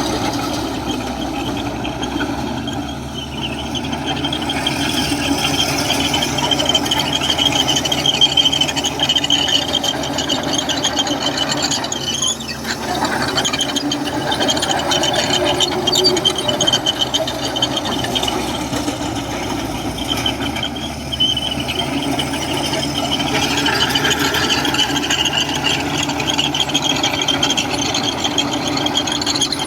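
Komatsu crawler bulldozer working, its diesel engine running under a steady high-pitched metallic squeal with rattling and clanking.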